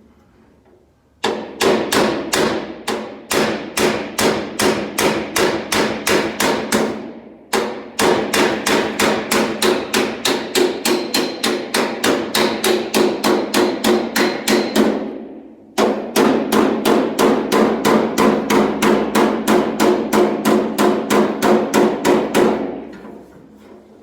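Panel-beating hammer striking a sheet-steel car door edge held against a hand dolly, planishing out a dent. Three runs of quick, even blows, about five a second, with a brief pause between runs.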